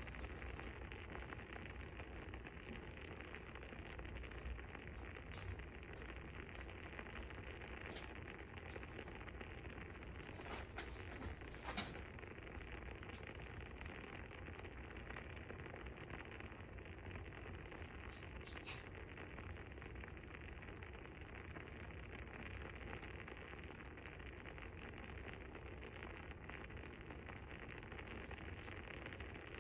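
Faint crackling of a fire: a few soft pops now and then over a steady low hiss.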